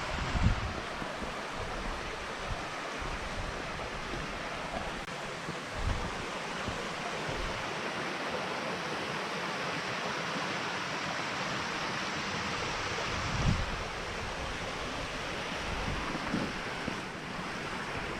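Steady rush of a mountain stream and waterfalls, with a few low bumps of wind or handling on the microphone.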